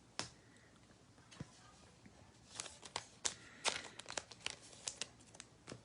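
Trading card pack wrapper crinkling and tearing as a pack is opened, with scattered light clicks of cards being handled. The sound is faint, with a few separate clicks at first and a busier run of crackles from about halfway through.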